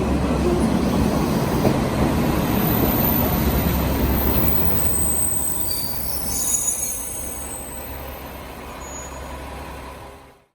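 A train pulling into a station platform with its wheels rumbling on the rails. From about three seconds in, high squealing tones from the wheels and brakes come in as it slows, and the rumble dies down over the second half.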